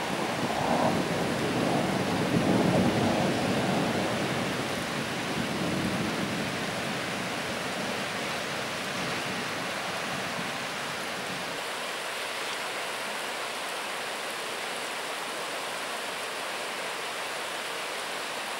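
Thunder rolling over steady rain: the rumble swells in the first few seconds and dies away by about six seconds in, leaving the even hiss of rain.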